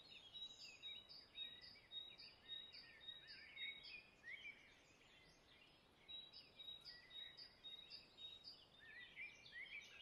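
Faint birdsong: one bird repeats a short high note about twice a second, breaking off midway through and then resuming, amid scattered chirps of other birds.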